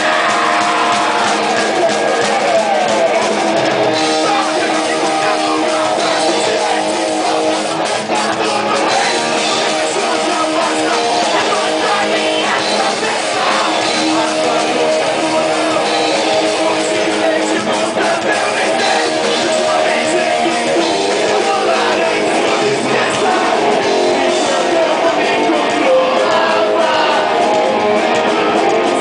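Live rock band playing loud, with electric guitar and a singing voice over the full band, recorded close to the stage.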